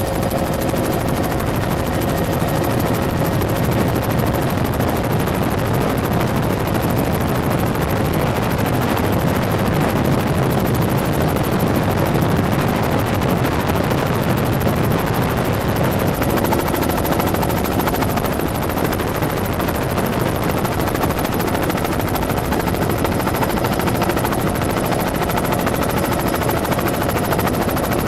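Helicopter running steadily in flight: a dense, even rotor chop with a steady engine hum under it.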